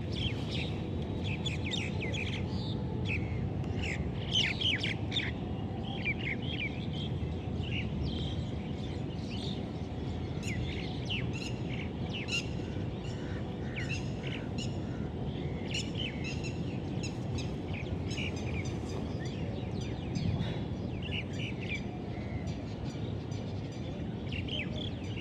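Many small birds chirping and calling busily, short high chirps overlapping throughout, over a steady low background rumble.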